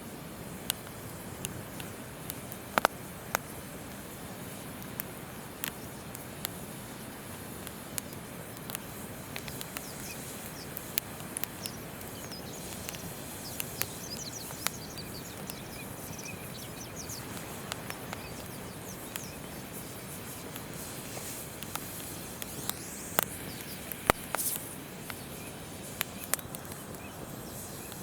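Wood campfire crackling with irregular sharp pops, over the steady rush of a flowing river. Birds chirp high through the middle stretch.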